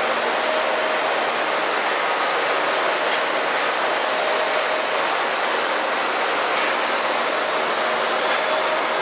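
KB-3 "Profi" three-spindle log-rounding machine running, with a steady, loud rushing noise and a faint steady whine.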